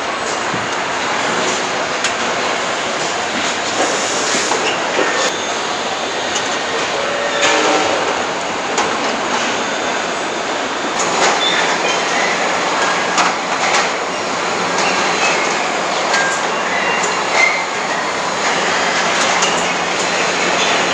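Truck assembly-plant floor noise: a steady hiss and rumble of machinery, with scattered clanks and clicks of tools and parts, and a few brief high beeps.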